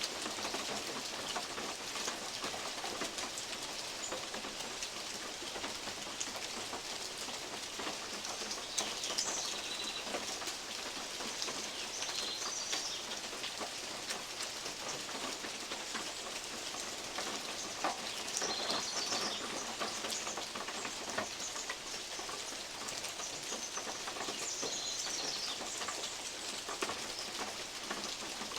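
Steady rain in oak woodland, with big drops from the leaves ticking and tapping irregularly on a metal roof. Birds call in short bouts of high chirps about four times.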